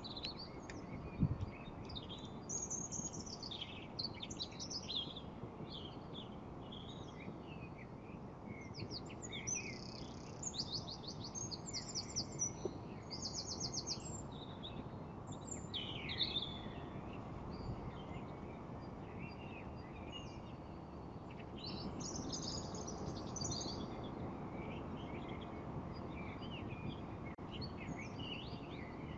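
Several small birds chirping and calling, with quick rattling trills near the middle, over a steady low background noise. A single short knock about a second in.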